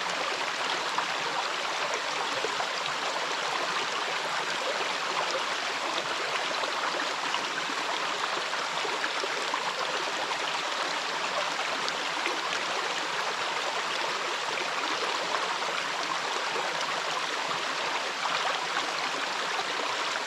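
Waterfall and the stream running in front of it: a steady rushing, splashing water noise that stays even throughout.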